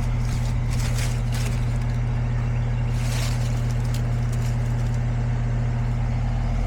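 Goodman outdoor air-conditioning condenser running with only its fan motor: a steady, even hum. The compressor is not running, the cause of the unit blowing no cold air. A few brief rustles come in the first half.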